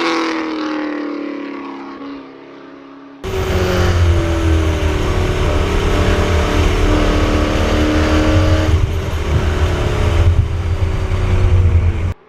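A Chevrolet Camaro ZL1 1LE's supercharged V8 drives past, its engine note falling in pitch and fading. About three seconds in it cuts abruptly to a much louder stretch of the engine running over a heavy low rumble, which cuts off suddenly near the end.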